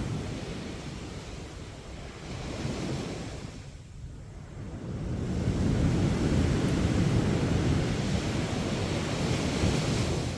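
Sea waves breaking and washing up a beach in a steady rush. There is a lull a few seconds in, then a wave swells back up and holds.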